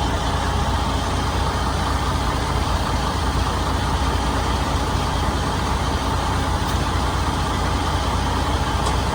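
Heavy truck engine running steadily: a constant low rumble with an even hiss over it.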